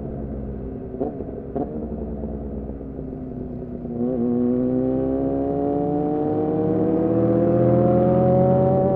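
2014 Yamaha R6's inline-four with an R9 titanium muffler and Leovince header, engine speed easing down with two quick throttle blips, as on downshifts. About four seconds in the throttle opens and the engine pulls with a steadily rising pitch.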